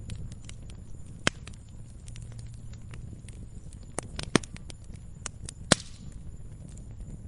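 Campfire crackling: irregular sharp pops and snaps, the loudest about a second in and a cluster between four and six seconds in, over a low steady rumble.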